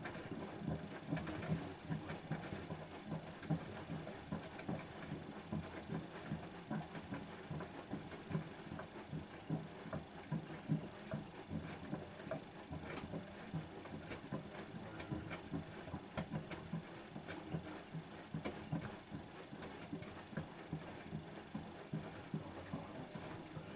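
Bosch WAN28220FF front-loading washing machine drum turning on a synthetics 40 °C wash, tumbling wet laundry through water with irregular soft thuds and sloshing patter. It starts abruptly after a quiet pause, as the drum begins another turn.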